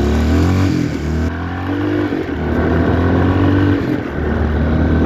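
Yamaha XT350's single-cylinder four-stroke engine running under way, its revs rising and falling in the first second, then holding fairly steady with a few brief dips.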